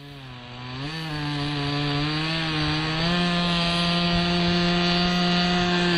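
Model airplane two-stroke nitro glow engine, turning a 10x7 propeller, throttling up for takeoff: its buzzing pitch climbs in two steps in the first few seconds and then holds steady at high throttle.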